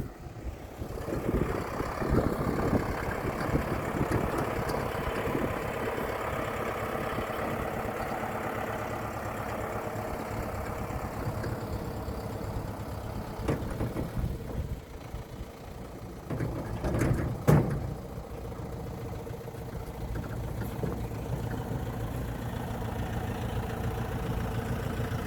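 Diesel tractor engine running steadily at low revs while it manoeuvres in reverse. A couple of sharp knocks about two-thirds of the way through are the loudest sounds.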